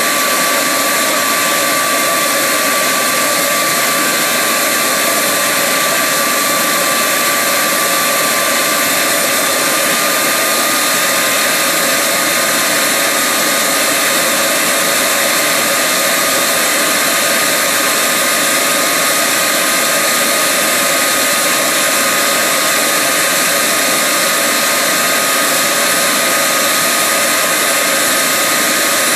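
Homemade turbocharger jet engine running steadily on its test rig: an even roar with a high turbine whine that creeps slightly higher in pitch about ten seconds in.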